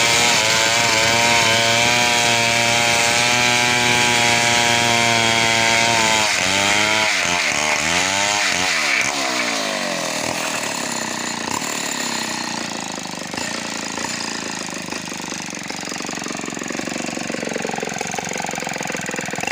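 Large two-stroke chainsaw running at a steady high speed for about six seconds. Its engine speed then swings up and down for a few seconds, and after that it runs quieter, with a rougher, less even note.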